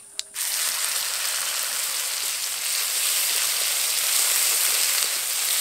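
Mustard and ginger paste sizzling in hot oil, starting suddenly about half a second in and then a steady, even hiss.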